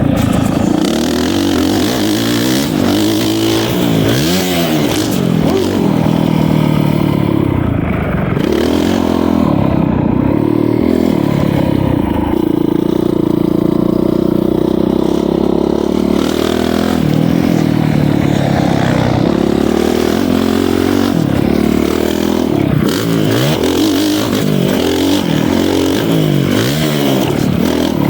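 Honda CRF450R four-stroke single-cylinder dirt bike engine, the throttle opening and closing over and over: the pitch climbs steeply, drops through gear changes and climbs again. A steady rush of wind noise runs over it.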